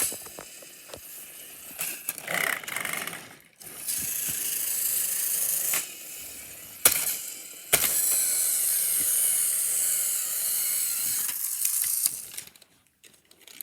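Small battery-powered toy train motors whirring steadily with a rattling gear clatter as the engines push against each other, with a couple of sharp clicks in the middle; the whirring stops near the end.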